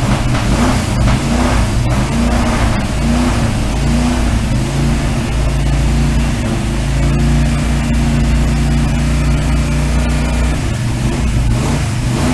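A 1965 Ford Falcon's engine running just after its first start-up, its speed rising and falling unevenly for the first few seconds, then settling into steadier running.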